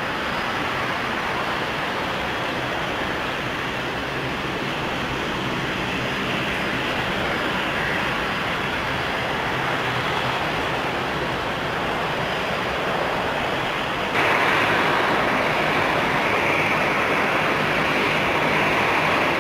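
Steady rushing noise of jet airliner engines, which jumps abruptly louder and brighter about fourteen seconds in.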